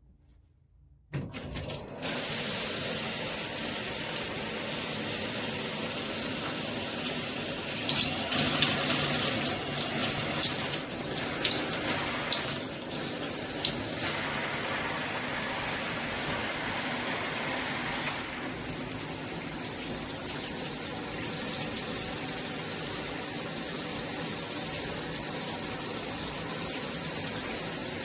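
Shower head spraying water, turned on suddenly about a second in, then a steady hiss of spray whose sound shifts a few times.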